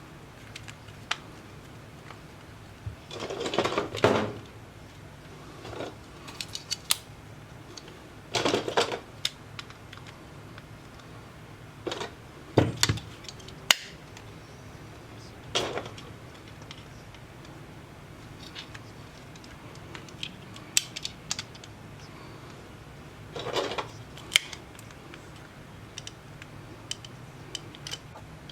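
Small tools and tablet parts handled on a workbench during a repair: scattered sharp clicks and taps, with a few short scraping or rustling bursts spaced several seconds apart.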